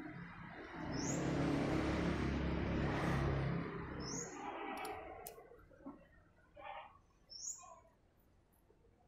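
Birds chirping a few short, rising calls, over a louder rushing noise with a low hum that swells about a second in and fades after about three seconds.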